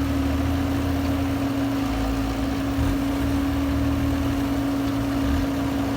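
Kobelco SK120-5 Super hydraulic excavator's diesel engine running steadily, with a steady hum over a low rumble.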